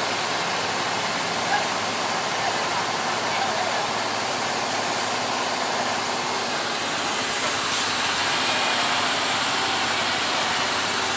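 Heavy truck engines running in road traffic, a steady mechanical rumble under a constant hiss of noise that grows a little brighter in the last few seconds.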